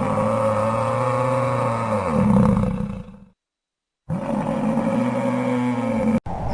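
A large animal's low, drawn-out roaring call, heard twice with a silent gap between, the second cut off abruptly near the end.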